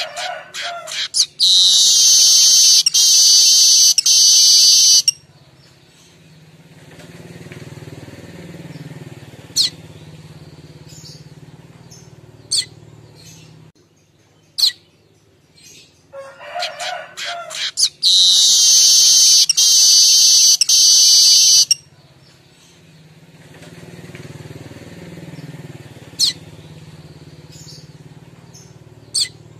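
Streaked weaver (manyar kembang) singing its 'kemrecek' song: a loud, dense, high buzzing chatter of about four seconds, heard twice about sixteen seconds apart, with quieter calls and sharp single chips between.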